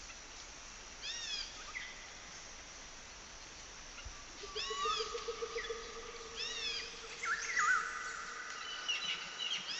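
Quiet nature ambience: a steady hiss with short, arching bird calls at intervals and a held whistled tone in the middle.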